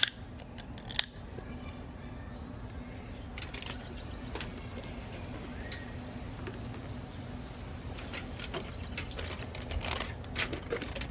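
Blueberry lager being poured into an aluminium foil boat holding pork steak and butter: a low, even pouring sound, with a sharp click about a second in.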